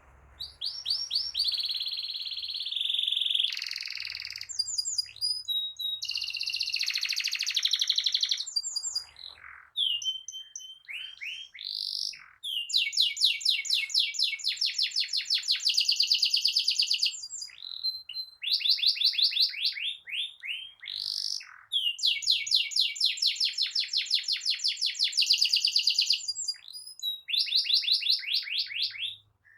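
Domestic canary singing vigorously, with long rolling trills of rapid repeated notes lasting several seconds each, broken by short whistled phrases.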